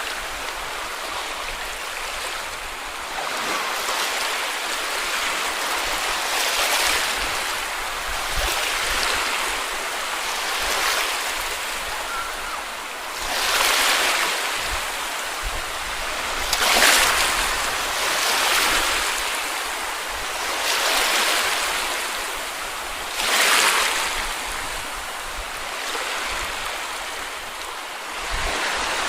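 Small sea waves washing onto a beach, a steady hiss of surf with a swell every few seconds as each wave breaks and runs up the sand.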